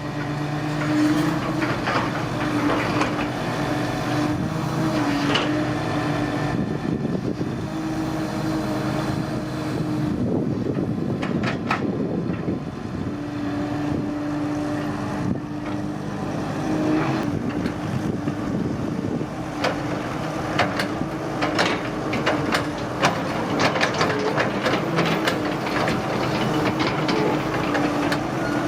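Excavator's diesel engine running steadily at working speed, its pitch shifting a little now and then, with scattered sharp clanks and knocks that come thickest in the last third.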